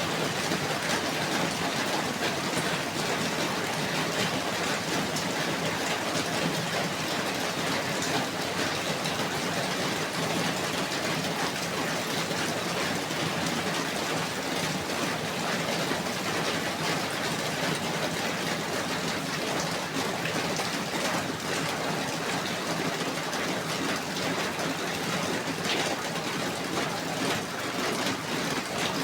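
Steady falling rain, an even hiss with scattered drop ticks throughout.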